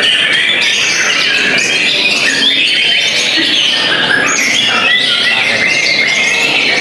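Several caged white-rumped shamas (murai batu) singing at once in competition, a dense, unbroken tangle of overlapping whistles, rising and falling glides and chattering notes.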